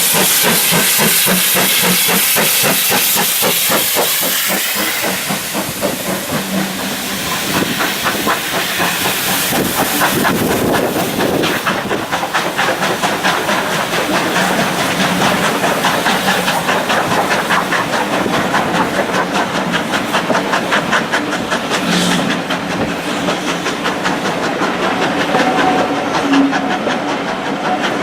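Steam locomotive working a train: rapid, even exhaust beats under a loud hiss of steam, the hiss easing after about five seconds.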